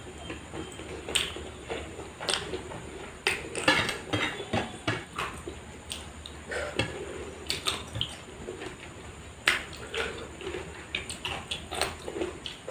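A person eating: chewing sounds mixed with irregular clicks and clinks of utensils against dishes.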